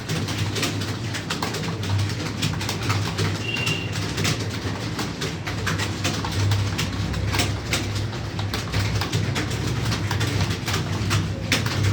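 Computer keyboard typing: a rapid, irregular run of key clicks, over a steady low hum.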